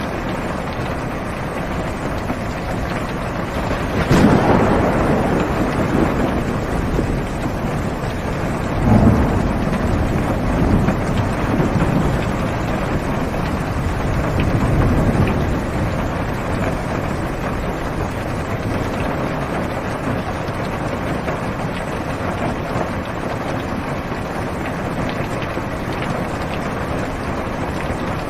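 Steady rain on a car's roof and windows, heard from inside the car. A thunderclap breaks about four seconds in and rolls on as rumbling, swelling again around nine seconds, for roughly ten seconds before the rain alone is left.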